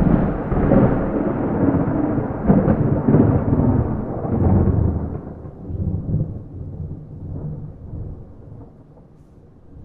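A thunderclap with no rain: a loud crackling rumble that breaks just before and rolls on for about five seconds, then dies away slowly to a low rumble.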